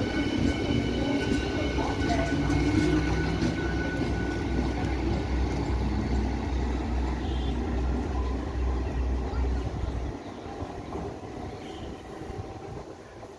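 Suburban local train running, a steady low rumble with an even pulsing beat, which drops away about ten seconds in, leaving a quieter background.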